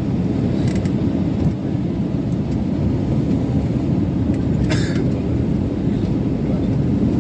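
Steady low rumble of a passenger airliner in flight, heard inside the cabin: engine and airflow noise. A brief rustle or click cuts through it about four and a half seconds in.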